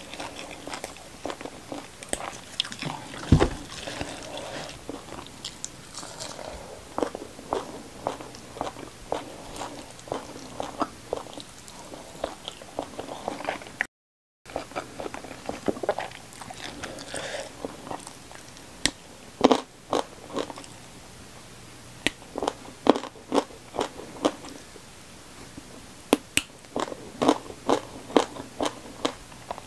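Close-miked chewing and crunching of raw greens such as basil leaves and rimbang (pea eggplants) with rice and fried fish, with many sharp crunches and wet mouth clicks. A dull thump sounds about three seconds in, and the sound cuts out for a moment about halfway through.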